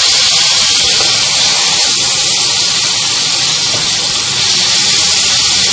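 Minced meat and sliced onions frying in hot oil as they are stirred with a spatula: a steady, loud sizzling hiss.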